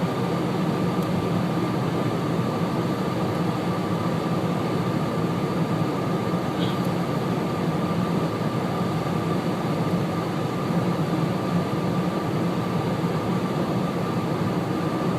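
Steady car-cabin noise while driving at about 45 mph: engine and tyre drone with a steady low hum and a faint steady higher tone.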